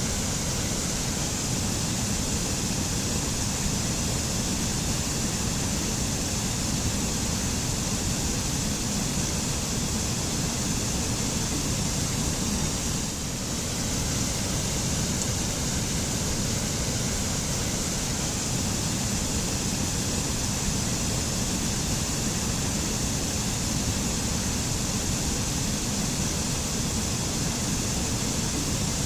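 Waterfall pouring steadily, a continuous dense rush of falling water with no breaks.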